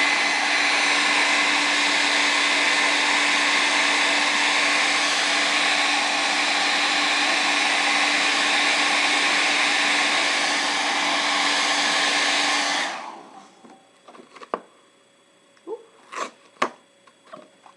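Handheld hairdryer blowing steadily on a coloring book's glued spine to soften the binding glue, a rushing whoosh with a steady hum underneath. It switches off about 13 seconds in, followed by a few sharp clicks and paper rustles.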